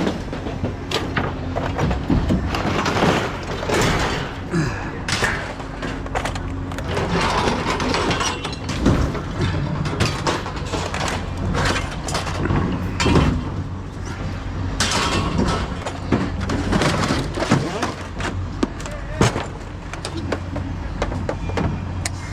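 Scrap metal being unloaded: repeated clanks and thuds as pieces are dropped and thrown, over a steady low hum.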